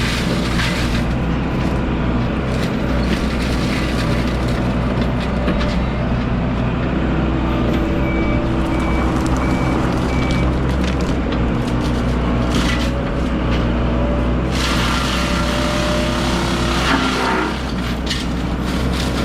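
Heavy diesel machinery running steadily, joined by a harsher, louder noise from about two-thirds of the way in. Faint beeps sound briefly near the middle.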